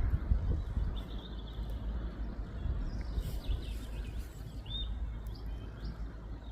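A few short, faint, high bird chirps over a steady low outdoor rumble.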